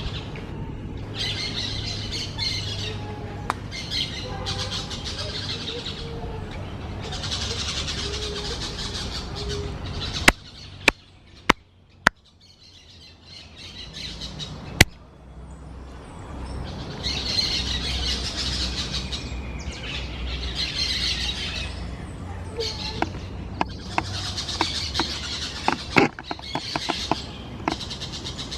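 Parakeets chattering and squawking in repeated bursts. A quieter stretch in the middle is broken by a few sharp, loud clicks, and more clicks come in quick runs near the end.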